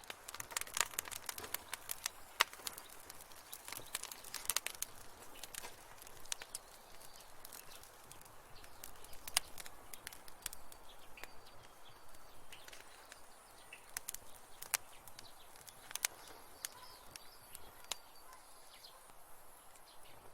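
Wood fire in a fireplace crackling and popping over a soft hiss. The pops come thick and fast for the first few seconds, then thin out to scattered snaps.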